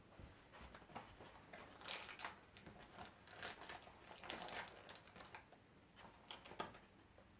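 Faint crinkling and scattered clicks of a cardboard dog advent calendar door being pushed open and the treats inside handled.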